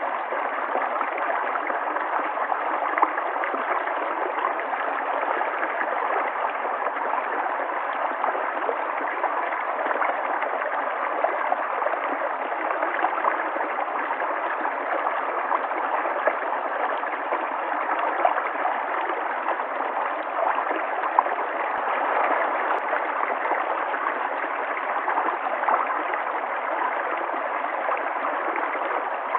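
River water flowing steadily, a continuous rushing and gurgling with small splashes scattered through it.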